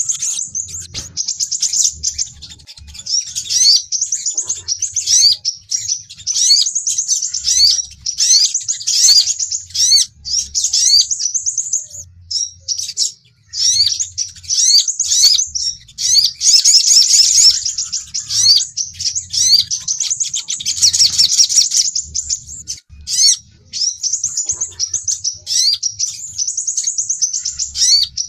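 Sunbirds calling and twittering: rapid, high-pitched chirps and short downward-slurred notes in dense runs, broken by brief pauses, as used in a lure recording for sogon and sepah raja sunbirds.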